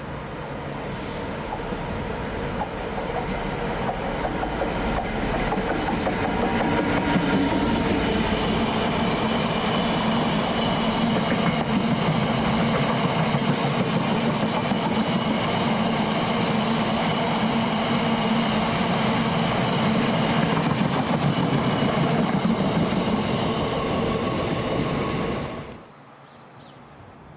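A train passing through a station, its wheels running on the rails with a dense, steady rumble. It builds over the first few seconds, holds steady, then cuts off abruptly near the end.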